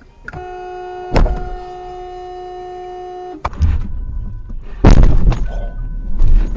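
A car horn sounding steadily for about three seconds, with a loud bang about a second in. It is followed by loud crash noises, with two heavy impacts.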